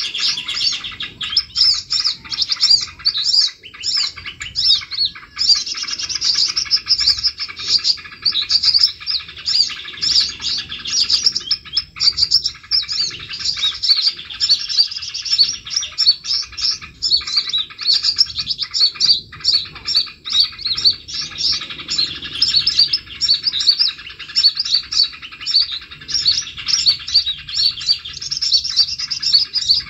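Many small songbirds chirping and twittering at once, a dense, unbroken chorus of rapid high-pitched calls.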